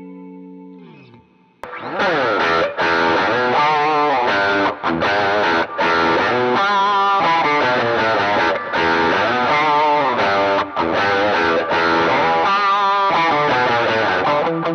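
Electric guitar played through a Line 6 modeller's Vox AC30 amp model and speaker impulse response. A held chord fades and slides down in pitch. After a brief gap, about a second and a half in, a loud riff of chords and wavering, bent notes starts and runs on.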